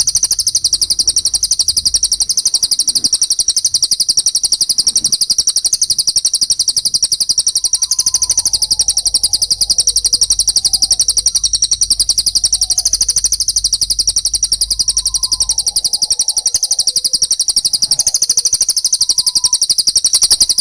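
Recorded songbird song for training caged birds: an unbroken, very fast, high-pitched chattering of a fighting Eurasian tree sparrow (gereja tarung) with a cililin, with a few faint lower whistled notes in the middle.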